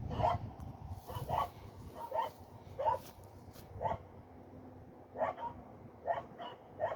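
A dog barking repeatedly: about a dozen short barks, some in quick pairs, at irregular intervals.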